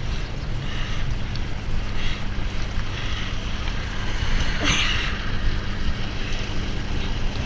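Wind buffeting a helmet-mounted action camera as a bicycle is ridden along a trail, a steady rumble and rush, with one short sharp noise about four and a half seconds in.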